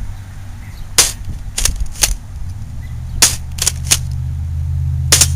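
Remington TAC-1 airsoft pump-action shotgun being fired and worked: about seven sharp clicks and snaps spread across a few seconds. A low steady hum runs underneath.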